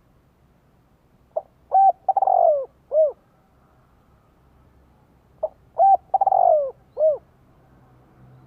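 Spotted dove cooing: two phrases about four seconds apart. Each phrase is a short note, two quick arched coos, a longer falling coo and a final arched coo.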